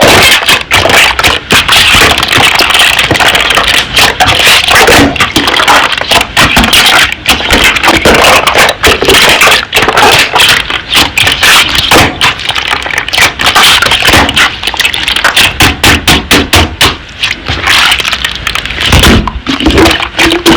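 Slime being squeezed and pressed by hand, making a dense, continuous run of loud crackling clicks and pops.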